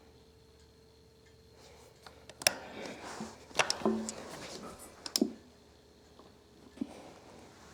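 Faint steady hum, then a sharp click about two and a half seconds in, followed by several knocks and rubbing: handling noise from a plastic table fan being moved and tipped.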